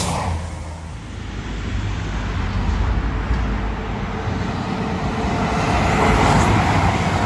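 Class 222 Meridian diesel multiple unit passing, a steady rumble of engines and wheels on the rails that dips about a second in and builds again toward the end.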